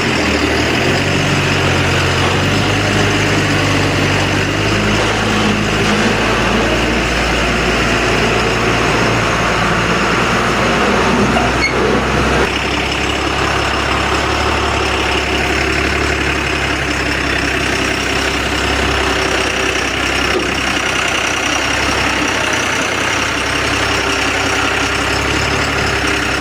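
Truck engine running steadily at idle, its tone shifting about halfway through.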